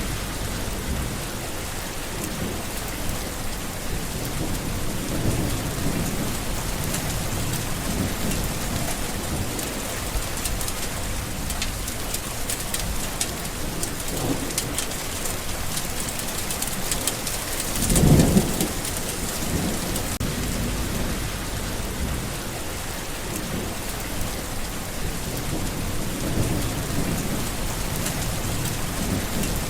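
Steady heavy rain falling, with low rumbles of thunder rolling underneath. About two-thirds of the way through comes a louder thunderclap.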